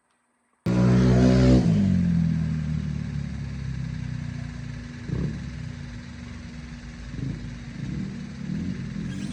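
A vehicle engine starts up abruptly and loud, its pitch falling over the first second as the revs drop, then runs on steadily with a few small swells.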